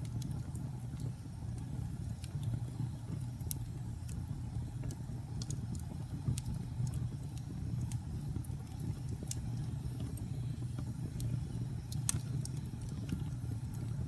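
Wood fire burning in a fireplace: a steady low noise of the flames with scattered small crackles and pops, one louder pop near the end.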